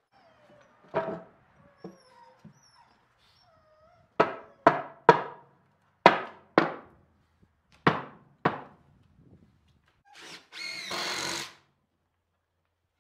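Hammer blows on wood: a single strike, then a run of seven sharp blows, several in quick pairs, as boards are nailed on the ramp. Near the end comes a brief burst of noise lasting about a second.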